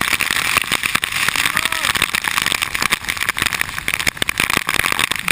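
Heavy typhoon rain striking a head-mounted GoPro Hero2 camera's housing: a loud, dense clatter of drops with many sharp ticks.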